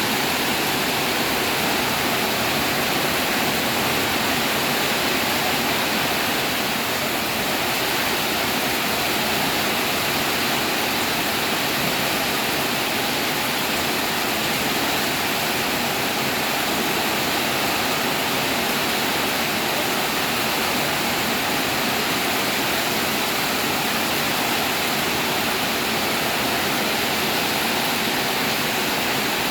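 Heavy rain pouring down steadily: a constant, even hiss with no breaks.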